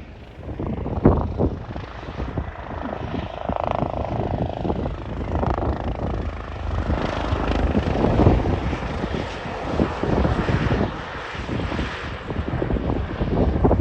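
Wind buffeting the microphone: a loud, uneven rumble that rises and falls.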